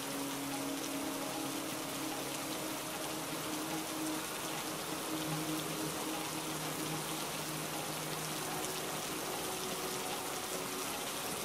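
Steady rain falling and pattering on surfaces, an even hiss, with soft held music notes underneath that shift a few times.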